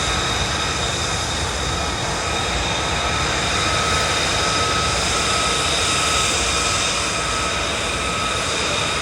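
Jet aircraft engine running steadily, a continuous roar with a high turbine whine.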